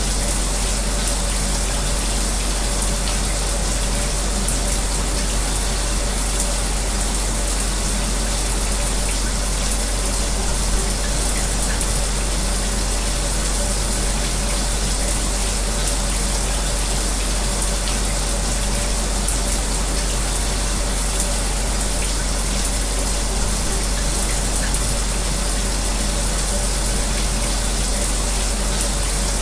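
A shower's spray running steadily together with an electric fan's steady low hum, making an even hiss without a break.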